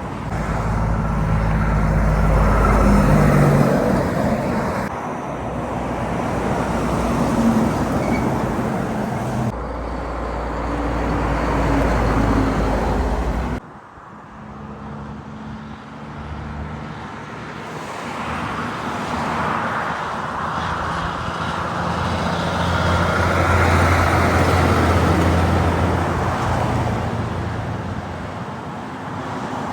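Road traffic with heavy trucks passing: engines running under load with tyre noise. The sound drops off suddenly about 14 seconds in, then builds again as another vehicle approaches and passes, loudest just before the end and then fading.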